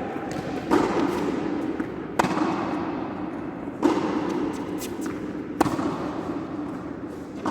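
Tennis ball struck by rackets in a rally, four hits about a second and a half apart, each echoing briefly.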